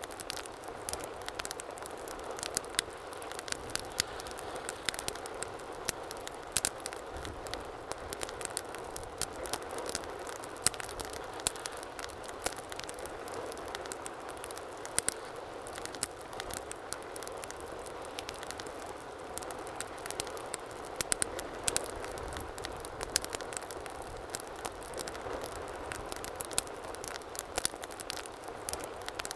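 Wood fire burning steadily, with irregular sharp crackles and pops over a soft, even rushing of the flames.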